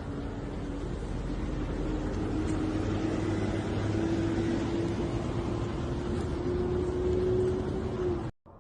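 A vehicle's engine note climbing slowly and steadily as the vehicle gathers speed, over a steady rush of road and wind noise. It cuts off abruptly near the end.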